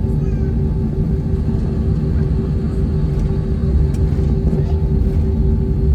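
Airbus A321 cabin noise after landing: a steady low rumble with a constant hum, as the airliner taxis.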